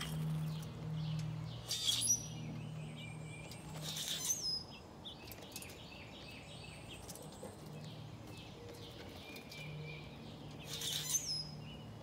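Small birds at a feeder giving short, sharp chirping calls in three brief bursts: two in the first third and one near the end.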